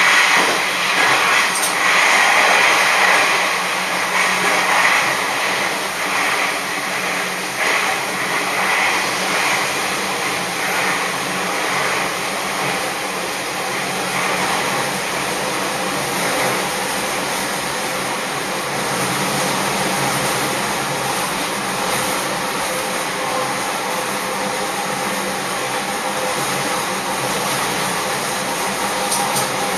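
Sanriku Railway diesel railcar under way, heard from inside the car: steady running noise of the car and its wheels on the rails, a little louder in the first few seconds.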